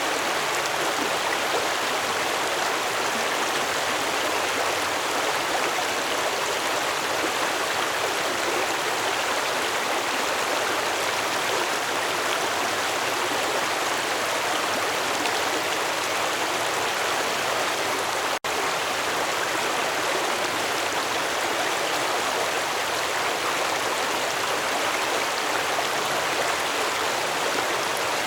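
Stream water flowing steadily, a continuous rushing and bubbling, with a split-second break in the sound about eighteen seconds in.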